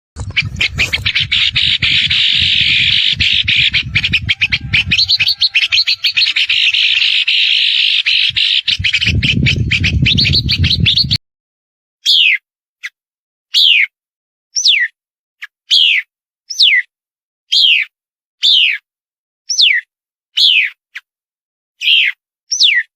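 Songbirds: a dense run of rapid chirps over a low rumble, cut off abruptly about halfway through. After the cut, a single bird repeats a clear whistled call that falls in pitch, about once a second.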